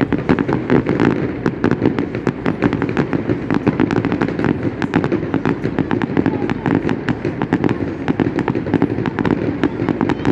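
A fireworks display in full barrage: a rapid, unbroken stream of sharp bangs and crackles, several a second, over a continuous low rumble of bursting shells.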